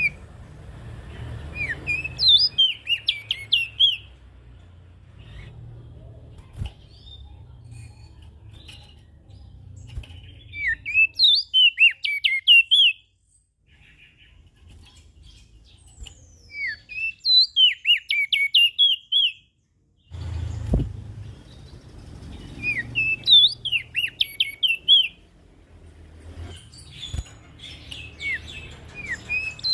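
Prenjak daun songbird singing in repeated bouts of rapid, high chattering notes, each bout two to three seconds long and coming every five or six seconds, over a faint low hum. A single dull thump comes about two-thirds of the way through.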